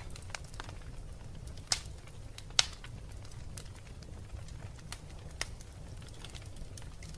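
Wood fire burning in a fireplace: a steady low rumble under scattered small crackles, with two sharper, louder pops near two seconds in, about a second apart.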